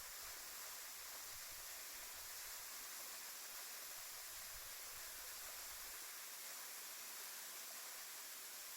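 Steady, faint rush of a roughly 40 m plunge waterfall, an even hiss. A soft low rumble underneath fades out about six seconds in.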